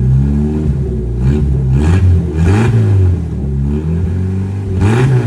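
1993 Jeep Wrangler YJ engine revved several times with the muffler removed, its pitch climbing and dropping with each blip of the throttle; the exhaust runs open with no muffler in the system.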